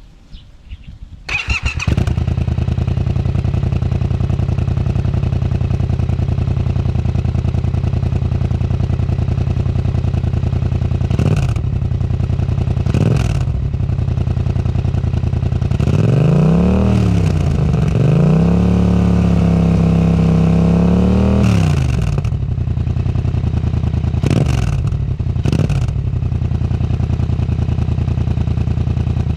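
Yamaha MT-07's parallel-twin engine with an Akrapovič exhaust starting about a second and a half in, then idling. It gets several short throttle blips and a longer rev held for a few seconds in the middle.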